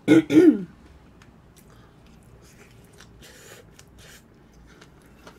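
A brief loud vocal sound right at the start, then faint close-up chewing of a mouthful of flying-fish-roe bibimbap, with soft mouth clicks and a short hiss about three seconds in.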